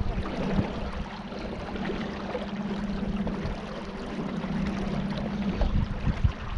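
A small boat's motor running with a steady hum, over water sloshing and splashing.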